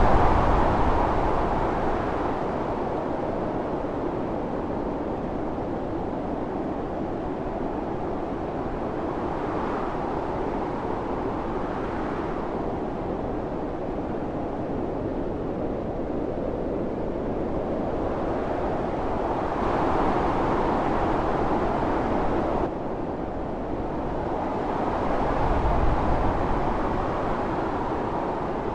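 Howling snowstorm wind, a steady rushing that swells in gusts every few seconds. It drops suddenly about three quarters of the way through.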